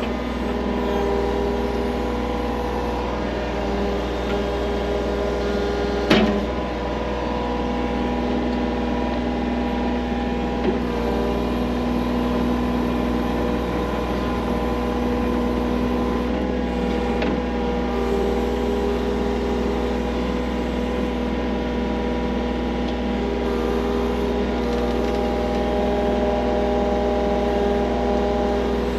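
Skid loader engine running steadily under light load. There is a sharp knock about six seconds in and a fainter one near eleven seconds.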